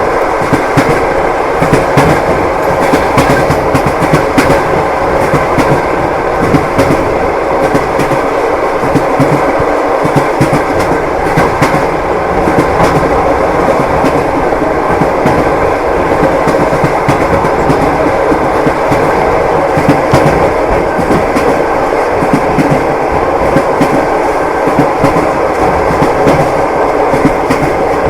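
Train wheels clattering over the rails: a steady rolling rumble with frequent clicks and knocks from the wheels striking the rail joints.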